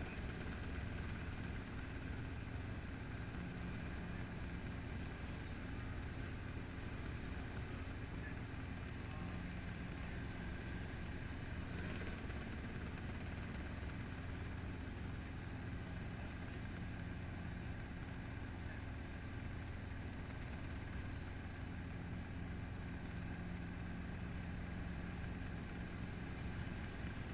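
Helicopter engine and rotors droning steadily in flight, with a low tone that comes and goes every few seconds.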